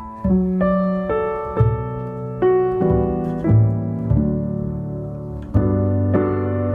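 Background music: a gentle piano piece, single notes struck about once or twice a second over sustained bass notes.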